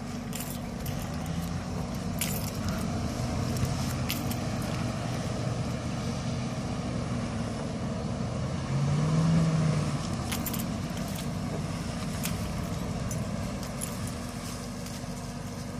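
Off-road vehicle engine running steadily, with a brief rev about nine seconds in, and scattered sharp clicks and rattles over it.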